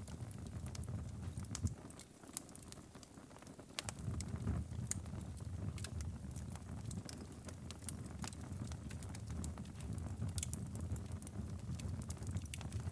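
Wood fire crackling, with irregular sharp pops over a low steady rumble that drops away briefly about two seconds in.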